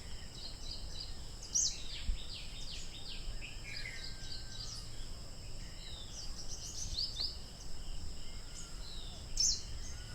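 Outdoor ambience of birds and insects: repeated short, falling bird chirps over a steady high insect drone.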